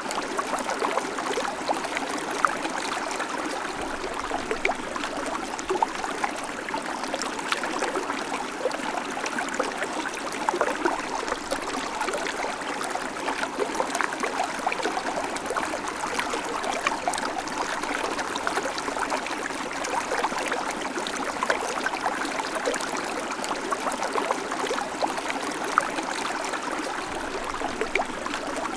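Babbling creek: water running steadily over stones, with a constant splashing and trickling and many small gurgles and drips.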